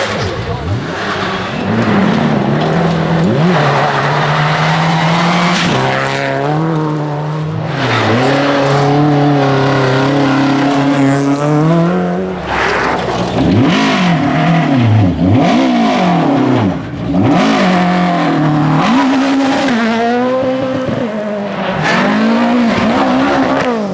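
Rally car engines at full throttle on a stage, the pitch climbing through each gear and dropping back at the shifts and lifts, with some tyre squeal.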